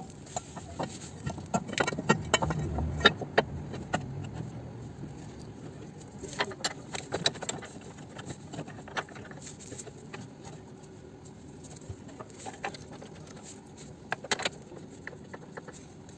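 Irregular metallic clicks, clinks and knocks of hand tools against metal parts while an engine support is fitted under a car, busiest in the first few seconds and with a pair of sharp knocks near the end.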